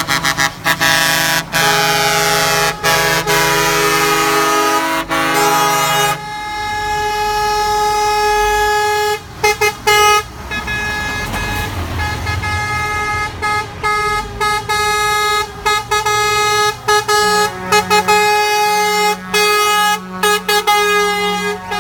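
Truck air horns sounding several tones at once in long blasts with short breaks, the chord shifting now and then. Between the blasts, a few seconds in, there is a stretch of low engine rumble.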